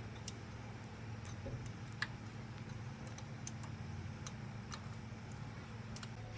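Light, irregular clicks and ticks, a few each second with one sharper click about two seconds in, over a faint steady low hum.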